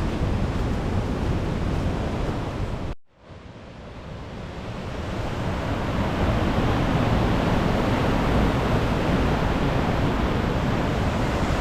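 Steady rush of a waterfall in flood, swollen by weeks of heavy rain. It cuts out abruptly about three seconds in and fades back up to full level over the next few seconds.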